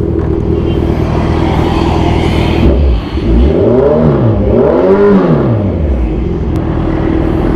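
Kawasaki Z1000 Sugomi's inline-four running through an aftermarket exhaust, idling, then revved twice about three seconds in, each rev rising and falling back before it settles to idle again.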